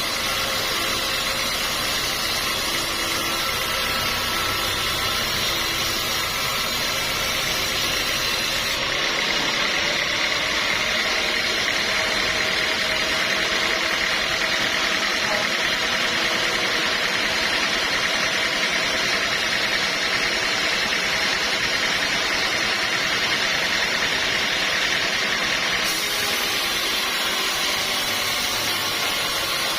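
Sawmill machinery running steadily with a continuous mechanical drone. Its tone changes for a long stretch in the middle, from about nine to twenty-six seconds in.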